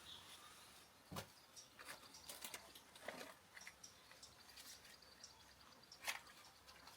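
Near silence, with a few faint, short clicks and taps; the most distinct come about a second in and near the end.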